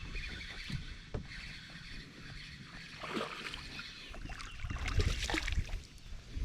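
A fishing kayak on the water: light water sounds and scattered small knocks and clicks, with a low rumble swelling about five seconds in.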